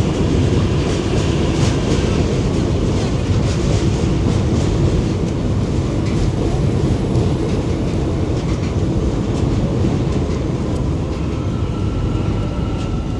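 Metro train running through the station with a loud, steady rumble and scattered rail clicks. A thin whine comes in near the end.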